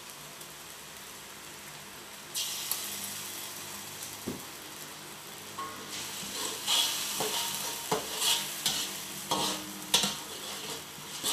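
Spoonfuls of chili paste dropped into hot oil in a wok, setting off a sudden sizzle about two seconds in. From about six seconds in, a spatula stirs and scrapes the frying spice paste, with sharp knocks against the wok over the continuing sizzle.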